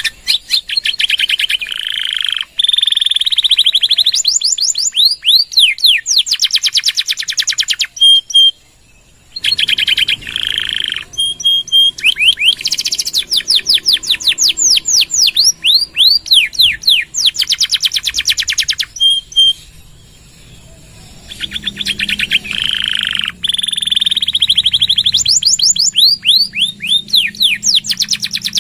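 Domestic canary in full song, singing long rolling phrases of rapid trills made of quickly repeated falling notes. Two short breaks come about a third of the way in and about two-thirds of the way in, each followed by another long phrase.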